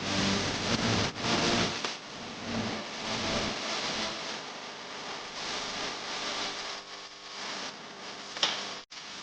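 Steady hissing noise, with deep bass notes from a car sound system over the first two seconds and a sharp crack near the end before the sound briefly cuts out.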